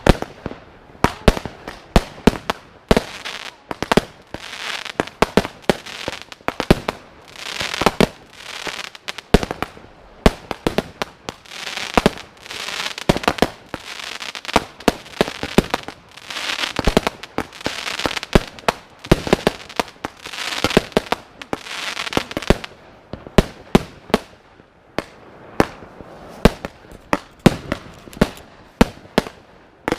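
Consumer firework batteries (cakes) firing in quick succession: a dense string of launch thumps and sharp bangs, with stretches of crackling after some of the bursts.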